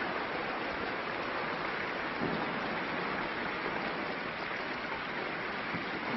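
Steady hiss of an old film soundtrack, with no distinct sound standing out from it.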